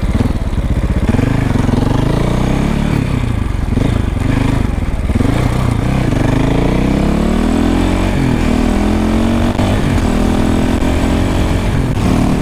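KTM 450 EXC single-cylinder four-stroke motorcycle engine under way, its revs rising and falling as the throttle is worked, then a long steady climb in revs from about halfway.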